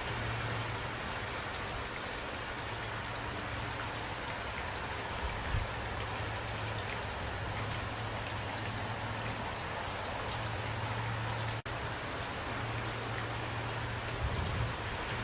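Steady rain falling, an even hiss of drops on a surface with a steady low rumble beneath. There are a couple of soft low thuds, and the sound cuts out for an instant about two thirds of the way through.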